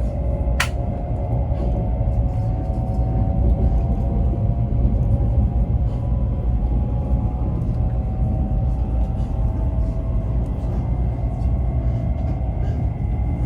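Taiwan High Speed Rail bullet train running, a steady low rumble with a faint whine that slowly falls in pitch. A single sharp click about half a second in.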